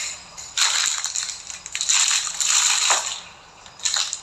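Plastic packaging crinkling and rustling as it is handled, in two long spells of dense crackling with a short lull between them.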